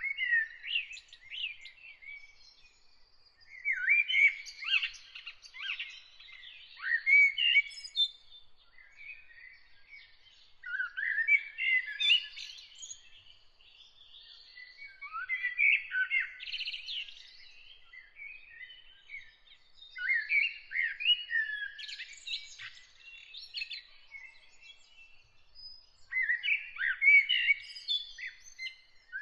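Songbird singing: about six phrases of varied, warbling, gliding notes, each lasting a few seconds, with short pauses between them.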